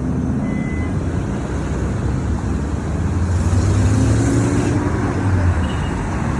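Road vehicle running: a steady low engine drone with road noise.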